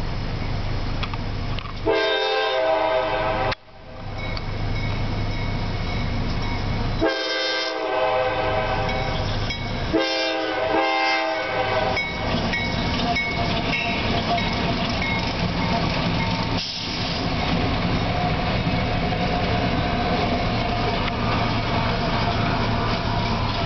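CSX freight locomotive horn sounding several blasts for the grade crossing, one of them about three seconds long. About halfway in, the lead locomotives pass close by with steady engine rumble and rail noise.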